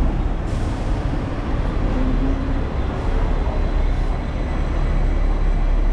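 Hong Kong double-decker electric tram running along its tracks, a steady low rumble of wheels and motor.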